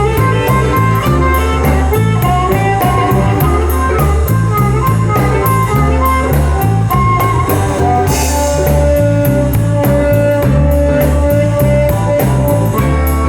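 Live blues band playing an instrumental passage, with guitar to the fore over drums and bass on a steady beat. One note is held long from a little past the middle.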